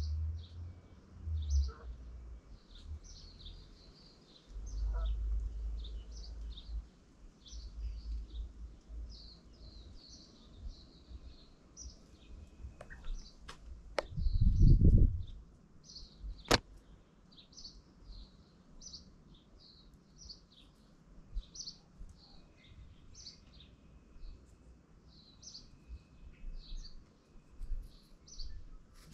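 Birds chirping throughout in short high calls, with a few low thuds and bumps, the loudest about halfway through, and a couple of sharp clicks.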